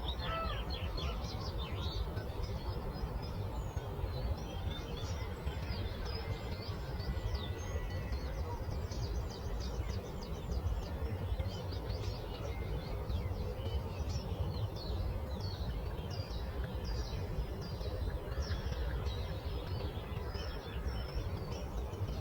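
Songbirds chirping in many short, quick calls throughout, over a steady low outdoor rumble of breeze.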